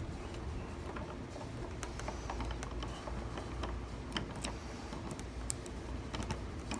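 Small metal tools working in a gumball machine lock: light, irregular metallic clicks and ticks of a pick probing the pins, over a low steady hum.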